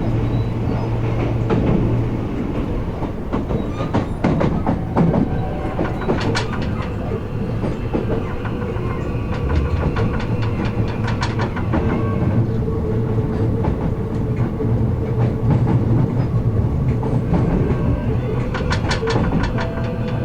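Kintetsu 16600 series electric train heard from inside the car end while running: a steady rolling rumble, with the wheels clacking over the joints of jointed rail in groups several times.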